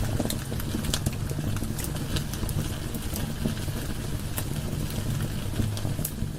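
Wood fire burning in a fireplace: a steady low sound of the flames with irregular sharp crackles and pops from the burning logs.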